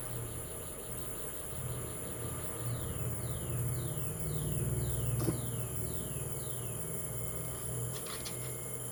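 A bird calling a run of about eight quick, evenly spaced notes, each falling in pitch, over a steady low hum. A single sharp click comes about five seconds in.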